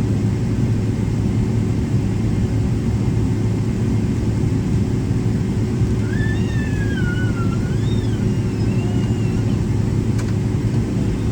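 Steady low rumble and hum inside the cabin of a Boeing 777-300ER taxiing on the ground. About six seconds in, a high voice is heard faintly for a few seconds, and there is a single click near the end.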